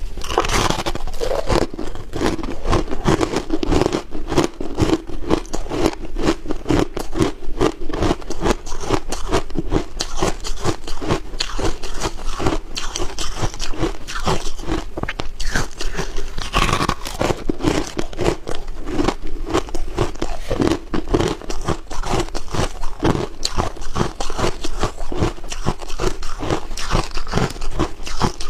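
A person biting and chewing ice, with many rapid, crisp crunches close together and no real pause.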